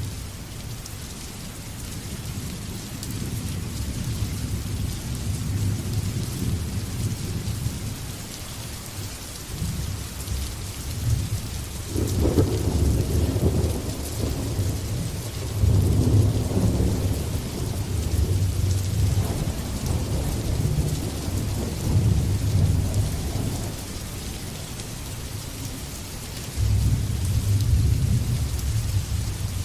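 Steady rain with rolling thunder: low rumbles swell and fade several times, the loudest peals breaking about twelve seconds in, again around sixteen seconds, and near the end.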